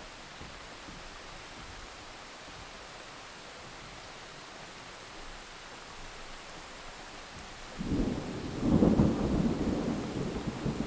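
Steady rain hiss; about eight seconds in a roll of thunder breaks in suddenly, swells a second later and rumbles on.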